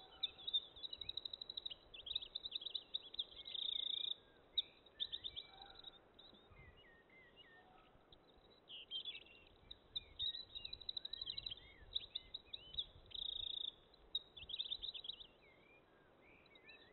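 Songbirds singing and chirping: bouts of rapid high trills and short notes sliding up and down, over faint background noise.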